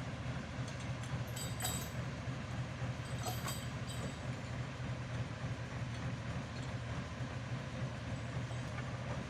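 Engine of a vintage ex-Indian Army 4x4 truck running steadily with a low, even drone, with a few faint metallic clinks about one and a half and three seconds in.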